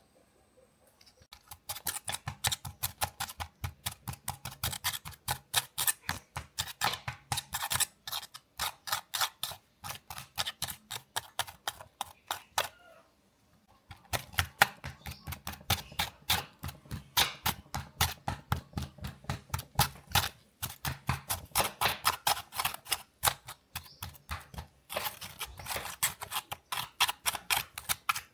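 A fast, even run of short clicking strokes, about five a second, with a pause of about a second a little before the middle.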